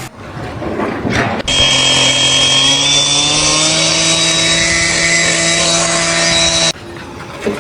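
A power tool's motor running at steady speed with a strong hiss over its hum, its pitch creeping slightly upward. It starts suddenly about a second and a half in and cuts off abruptly near the end.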